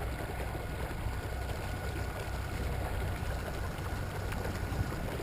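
Torqeedo Ultralight electric outboard driving a kayak: water rushing along the hull over a low rumble, with a faint steady motor whine that fades out about four seconds in.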